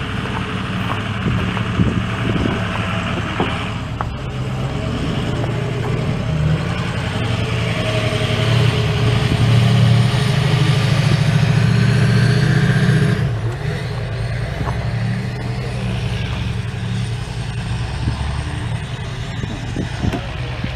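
Vehicle engine running steadily. It grows louder from about 8 seconds in and drops back suddenly about 13 seconds in.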